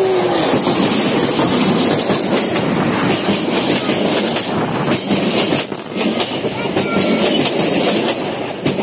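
A diesel-hauled passenger train passing close by: the locomotive goes past at the start, then its coaches, with a steady rumble of wheels on rail and repeated clacks as the wheels cross rail joints.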